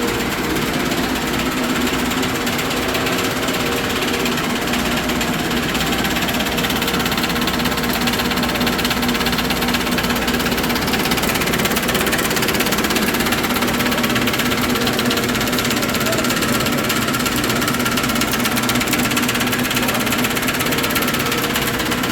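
Abar Ipsen vacuum furnace machinery running: a loud, steady mechanical hum with constant tones and no change in pace.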